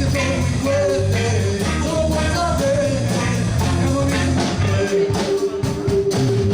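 Blues band playing, with drums, bass and guitar under a lead melody of bending notes, likely the harmonica, which holds one long note near the end.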